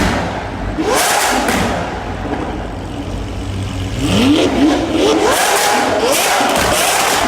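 Lamborghini Aventador's V12 with a Fi Exhaust system, revving loudly, its pitch climbing steeply several times.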